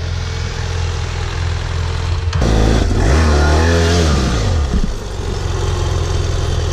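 BMW F800GS parallel-twin engine running at steady low revs, then from about two and a half seconds in revving up and back down over a couple of seconds. The bike is trying a rutted dirt climb with its traction control left on, which holds it back from climbing.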